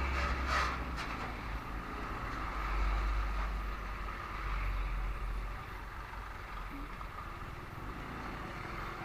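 Road and traffic noise heard from a moving motorcycle: a steady low rumble of engine and wind with surrounding vehicles, and a few sharp clicks in the first second.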